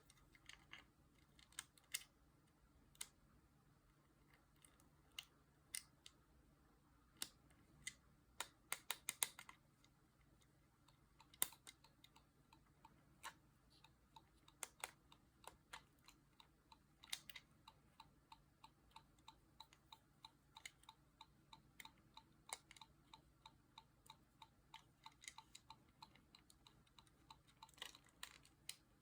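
Light, sharp clicks and taps, like small hard parts being handled. They start scattered, with a quick cluster of several, then settle into a steady run of faint ticks about two or three a second.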